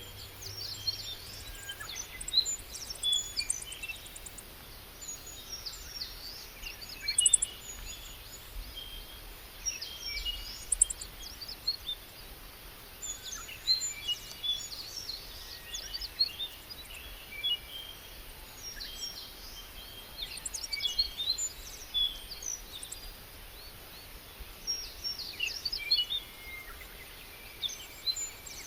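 Several wild birds chirping and singing, with many short calls and trills overlapping one after another throughout, over a faint low background rumble.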